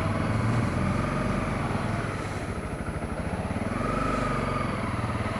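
Honda CRF250L's single-cylinder four-stroke engine running steadily as the motorcycle is ridden at low speed. Its note swells a little about four seconds in.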